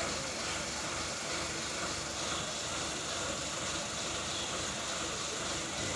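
Steady noise of vehicle engines running, with no single event standing out.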